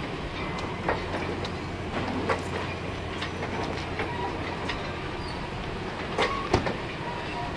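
Stainless-steel passenger cars of the Ringling Bros. circus train rolling past, their wheels clicking and knocking irregularly over the rail joints, with a few brief thin squeals and a steady low hum underneath. The loudest knock comes near the end.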